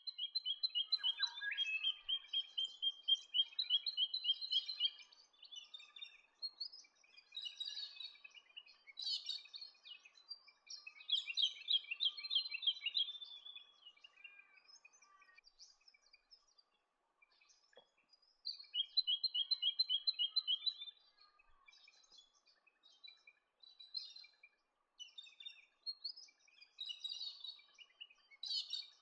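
Jacky Winter singing: several runs of quick, evenly repeated high notes, each lasting a few seconds, one of them falling in pitch, with softer chirps between the runs.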